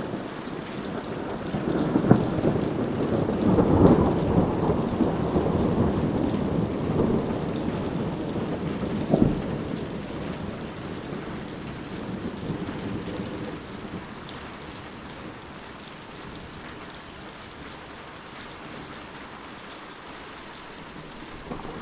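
Thunderstorm: steady rain with thunder rolling through the first half, with sharp claps about two and nine seconds in, then the thunder dies away and the rain carries on more quietly.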